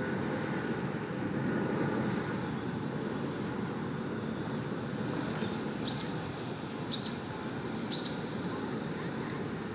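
Steady low rumble of city traffic noise. About six seconds in come three short high chirps, a second apart.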